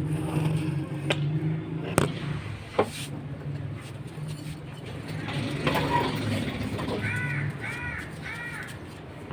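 A bird gives three harsh, arched calls in quick succession near the end, over a steady low hum, with a few sharp clicks in the first few seconds.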